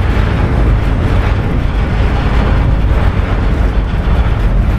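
Steady loud rumble of the iron ore train rolling along, with wind buffeting the microphone in an open ore wagon.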